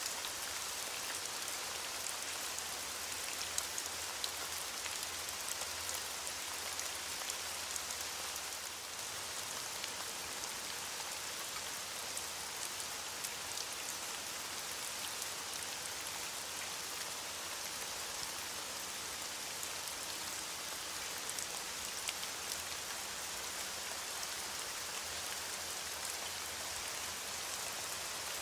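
Steady heavy rain falling on a surface, a dense even hiss with many small drop ticks.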